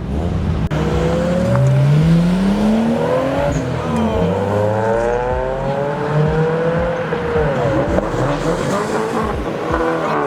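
Cars pulling out and accelerating away. Several engine notes overlap, each rising in pitch as it revs up and dropping back, about four seconds in and again near eight seconds.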